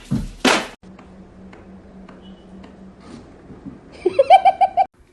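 A short burst of high-pitched giggling, rapid repeated bursts of laughter for about a second near the end, after a quiet stretch with a faint steady hum.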